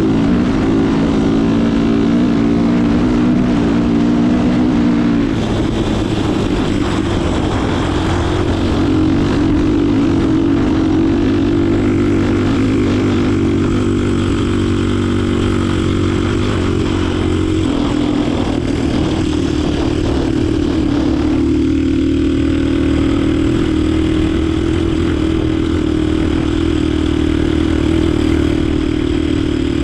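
Yamaha DT 125 motorcycle with a swapped-in Diabolini 250 cc four-stroke engine, running steadily. The engine speed changes in steps, about five seconds in and again past halfway.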